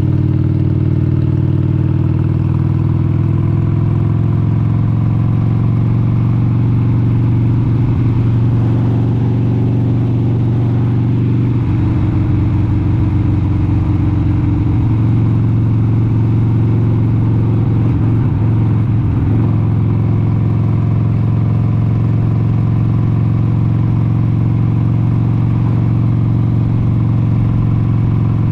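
1996 Harley-Davidson XLH883 Sportster's air-cooled 883 cc Evolution V-twin running steadily at cruising speed. The engine note wavers and roughens for a while around the middle, then settles back to a steady note.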